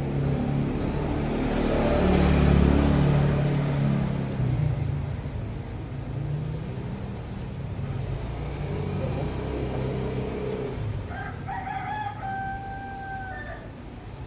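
A vehicle passes with a low rumble, loudest about two to three seconds in. Near the end a rooster crows once: a held call of about two seconds that rises at the start and drops off at the end.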